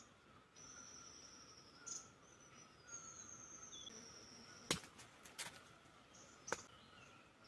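Faint outdoor wildlife ambience: thin, high-pitched calls about a second long over a steady faint chirring, with three sharp clicks in the second half.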